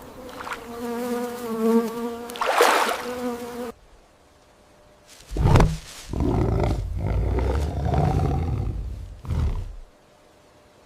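A buzzing insect drone. After a cut and a short pause, an animal gives a series of deep, rough roars and growls.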